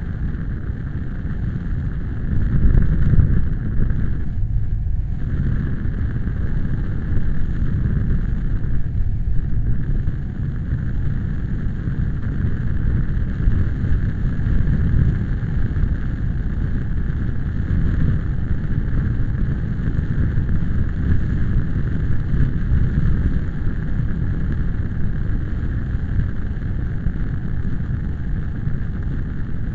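Strong gusty wind buffeting the microphone: a loud, low rumble that surges and eases with the gusts.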